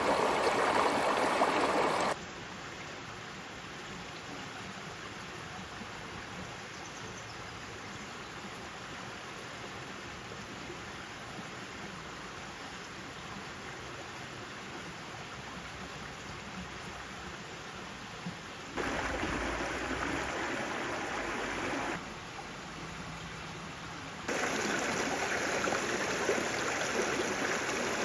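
Steady rushing water noise. It changes level abruptly about 2 seconds in, again near 19 and 22 seconds, and rises once more near 24 seconds.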